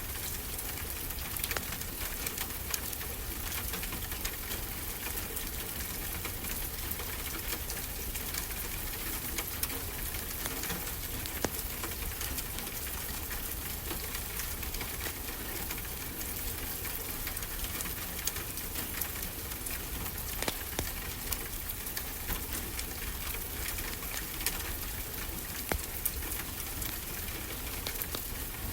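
Wood fire crackling in a fireplace, with steady fine crackle and a few sharper pops scattered through, over an even wash of ocean surf.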